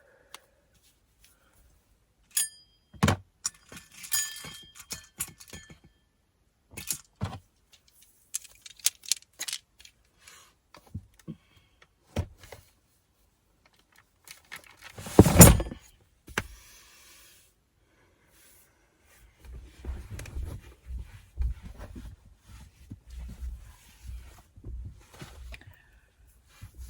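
Scattered knocks, clicks and light rattling, with one loud thump about halfway through, then a run of low rumbling bumps near the end.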